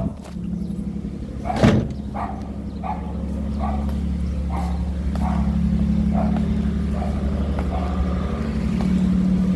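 Mercedes-Benz car engine running steadily and growing louder, with a dog barking repeatedly over it, one bark louder than the rest about two seconds in.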